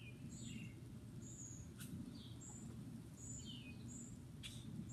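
Birds chirping faintly: short high chirps repeated every half second or so, mixed with some lower falling notes.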